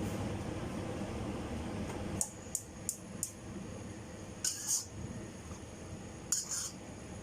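Short, sharp clinks and scrapes of a utensil, four in quick succession a couple of seconds in and two longer ones later, over a steady low rumble.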